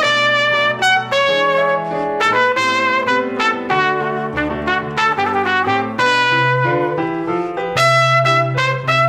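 A live instrumental salsa duet: a trumpet plays a flowing melody of held and moving notes over a lower accompaniment.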